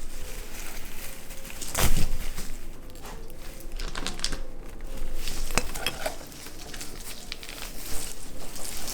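Rustling and small clicks of a string of lights being wound around a Christmas wreath by hand, with one louder knock about two seconds in.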